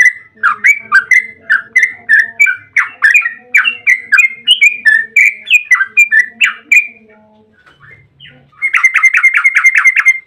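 Yellow-vented bulbul (trucukan) calling in a long, rapid run of loud, bubbly chirps, about four a second. It breaks off briefly about two-thirds of the way through, then resumes in a quicker, even rattle of notes.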